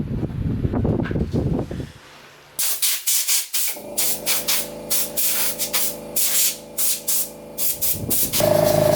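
Rubbing strokes of abrasive work on metal, then a run of short hissing bursts over a steady motor hum. Just before the end, a louder steady machine hum starts up.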